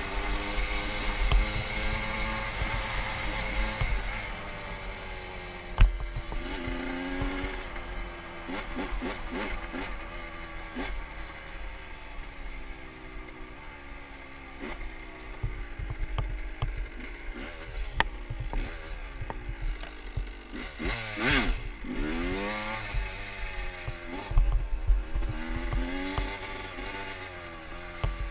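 Motorcycle engine running while riding, its pitch repeatedly rising and falling as it revs up and eases off, with wind rumbling on the microphone. A single sharp knock comes about six seconds in.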